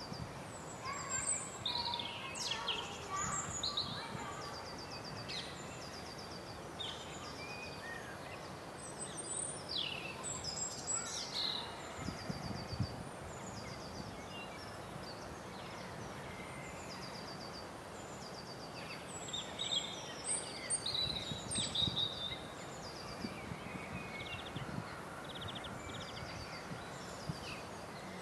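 Songbirds chirping and trilling on and off over a steady outdoor background hum.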